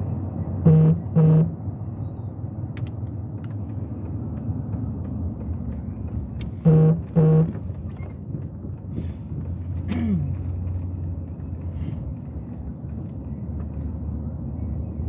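Vehicle horn sounding two short beeps in quick succession about a second in, then two more about six seconds later, over the steady low rumble of a vehicle running in slow traffic.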